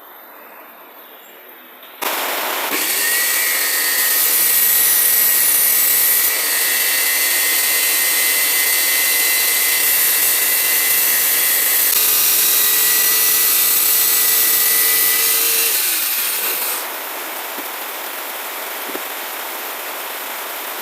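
Electric power tool starting abruptly and running steadily with a high whine, then easing off near the end and leaving a steady hiss.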